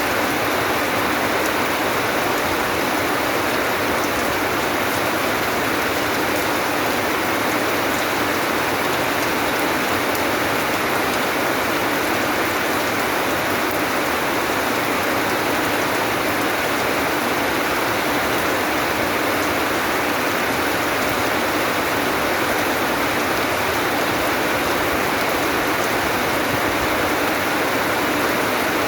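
Steady, even rain hiss falling continuously, with no single drops or breaks standing out.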